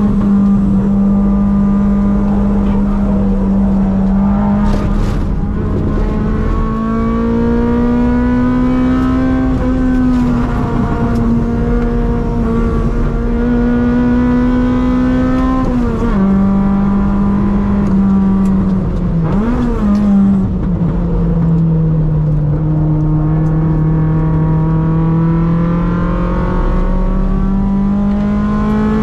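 Toyota AE101 Corolla's 1.6-litre 4A-GE 20-valve four-cylinder engine, heard from inside the cabin, running hard on track. Its pitch climbs slowly through the revs, drops suddenly a little past halfway, dips and rises briefly a few seconds later, then sinks for a few seconds before climbing again near the end.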